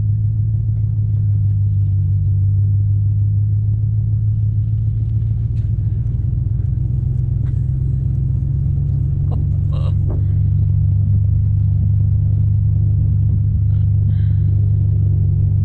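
Pickup truck driving on a snowy dirt road: a loud, steady low rumble of engine and road noise.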